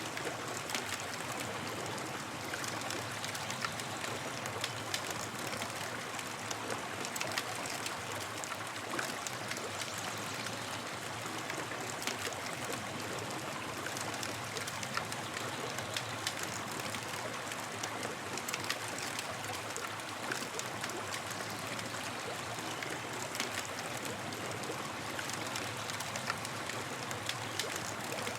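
Campfire crackling: a steady hiss with frequent small, sharp pops and snaps.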